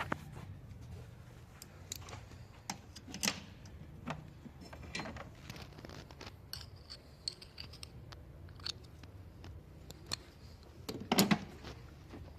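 Scattered metallic clicks and clinks of hand tools and parts being handled during a car thermostat replacement, with a louder clatter about eleven seconds in.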